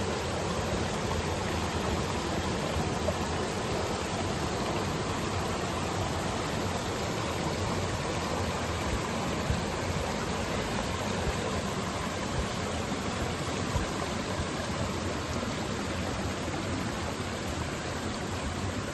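Flowing water making a steady, even rush with no change throughout.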